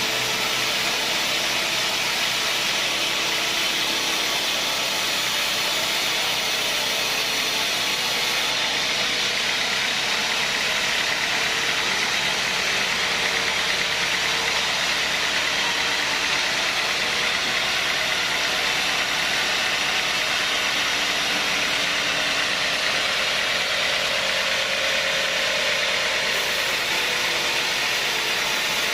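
Sawmill log saw running steadily: a constant, even mechanical whir with no let-up.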